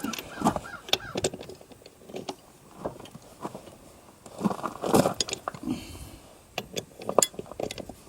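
Irregular metallic clinks, clatters and scrapes of hand tools and sockets being handled while a tractor wheel is taken off, coming in scattered clusters.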